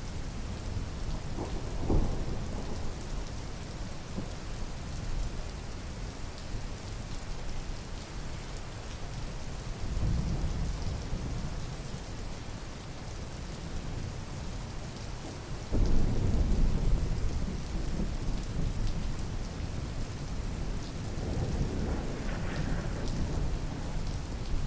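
Steady rain with several low rolls of thunder; the loudest begins suddenly about two-thirds of the way through.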